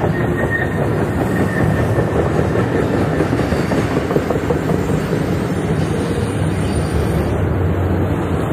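Diesel-hauled double-stack container freight train passing close by: the locomotives' diesel engines running under power as they pull away, and the container cars' wheels clattering steadily on the rails.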